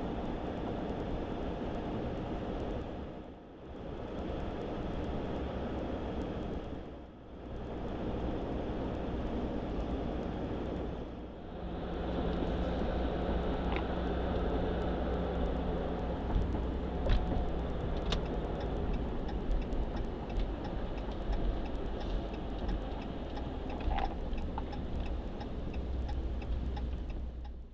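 Ram pickup truck cab interior while driving: steady road and engine noise with a low hum, broken by short dips about 3.5, 7 and 11 seconds in, and a few sharp clicks in the second half.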